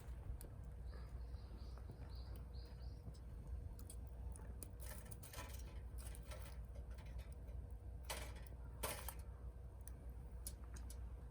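A small bird gives a quick run of about five short high chirps near the start. Later come scattered sharp clicks and two louder crackling bursts, over a low steady rumble.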